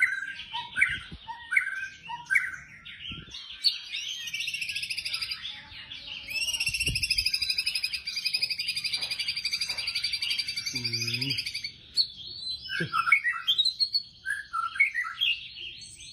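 White-rumped shama (murai batu) singing: a few repeated short whistled notes, then a long, fast, rattling trill lasting about eight seconds (the 'tembakan' burst prized by bird keepers), breaking into quick varied phrases near the end.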